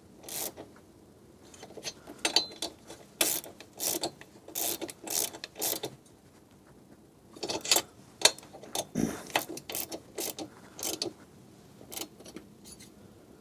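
Hand ratchet clicking in short bursts with pauses as the cylinder head nuts are run down gradually.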